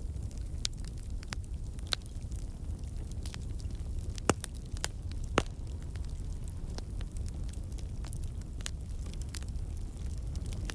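Wood campfire burning, with a steady low rumble of the flames and irregular sharp crackles and snaps from the logs. Two louder pops come about four and five seconds in. The crackling comes from water and sap in the wood turning to steam and bursting out.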